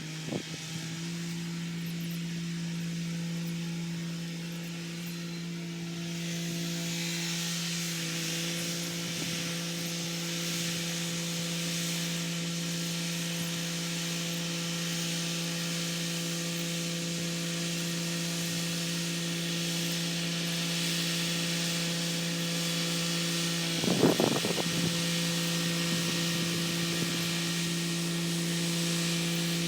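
Kubota SL35 tractor's diesel engine running at a steady speed while working a rotary tiller, with a constant hum and hiss. There is a short clatter about 24 seconds in.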